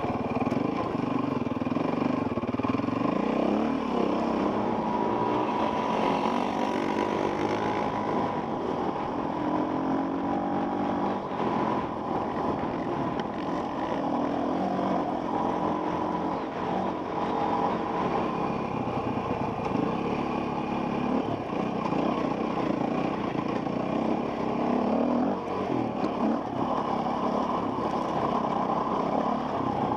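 Dirt bike engine running on a trail ride, heard from a helmet camera, its revs rising and falling again and again with the throttle.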